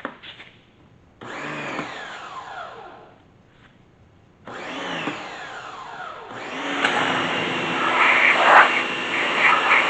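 Small electric pressure washer's motor starting: two short spurts whose whine falls in pitch as they die away, then running steadily from about six seconds in, with the hiss of the water spray growing louder.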